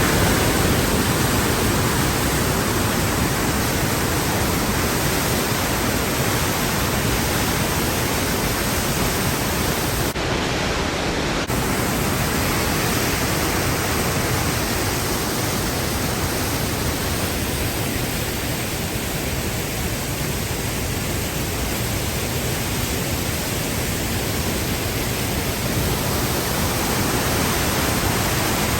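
Steady rush of the Rhine Falls, a large waterfall, heard close up.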